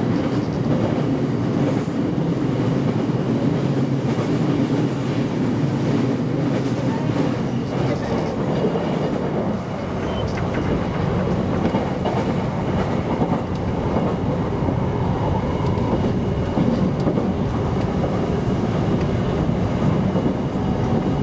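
Electric commuter train running at speed, heard from inside the front of the car: a steady rumble of wheels on rail and motors.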